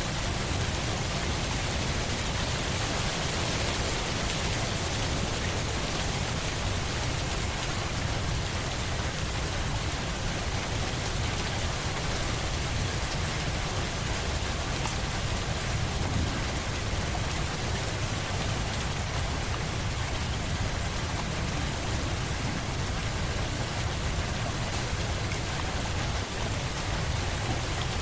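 Steady rain falling on a surface, an even unbroken hiss with a low rumble underneath.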